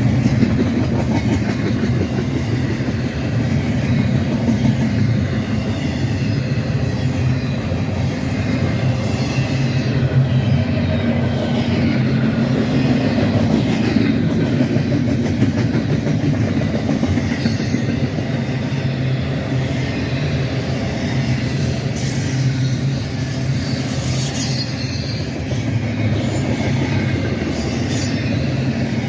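Freight train cars rolling past at steady loudness, wheels clacking over the rail joints, with some high wheel squeal.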